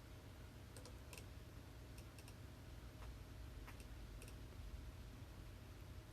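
Faint clicks of a computer mouse, a few scattered single clicks and quick double clicks, over a low steady hum.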